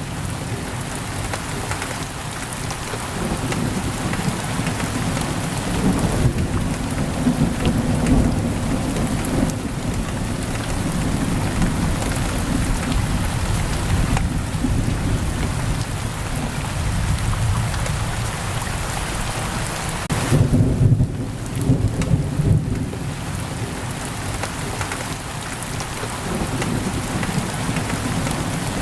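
Steady pouring rain on a window, with low thunder rumbling that swells and fades, strongest a little past two-thirds of the way through.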